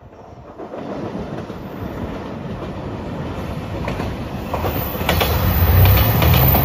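JR 2700 series diesel limited express train approaching and passing close by, growing steadily louder. Its diesel engines drone low, and the wheels click over rail joints as the cars go by.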